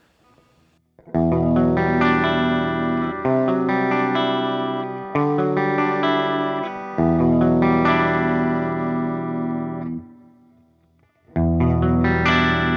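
Electric guitar played clean through the Flamma FS06 preamp pedal's Friedman clean-channel amp emulation: a run of strummed chords, each left to ring, that fades out about ten seconds in. After a short silence the playing starts again near the end.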